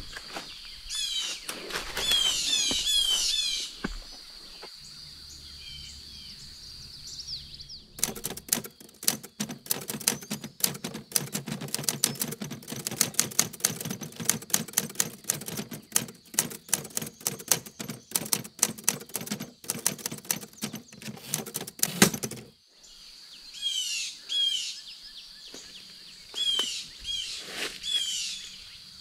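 A songbird repeating short, high chirping phrases over a steady high insect drone. In the middle comes a long run of dense crackling clicks lasting about fourteen seconds, louder than the birdsong, and the chirping returns near the end.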